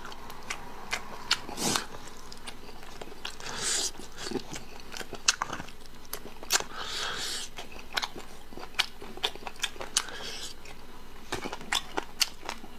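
Close-miked eating of braised pork: chewing and biting, with many sharp wet mouth clicks and a few short louder noisy bursts.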